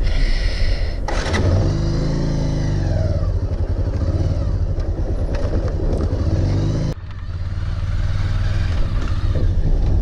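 Motorcycle engine running while being ridden, with an abrupt drop and change in the sound about seven seconds in.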